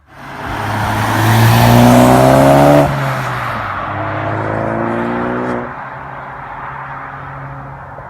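Mk3 Ford Focus ST with its exhaust resonator deleted, accelerating hard: the engine note rises through one gear, drops at a shift about three seconds in and rises again through the next gear. The throttle lifts at almost six seconds and it settles to a steady, quieter run.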